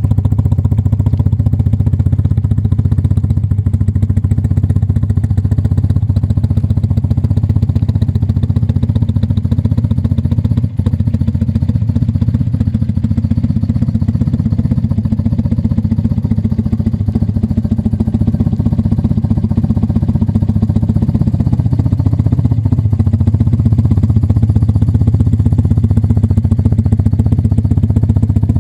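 BMW R80's air-cooled boxer twin engine running steadily, a low, even drone. There is one brief drop about ten seconds in.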